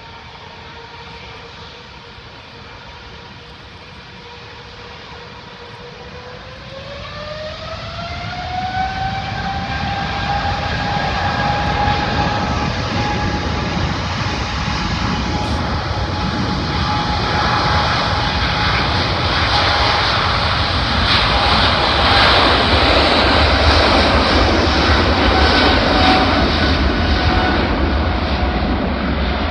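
Jet airliner engines spooling up to takeoff power. An engine whine rises in pitch about six to nine seconds in, then a loud jet roar builds and holds.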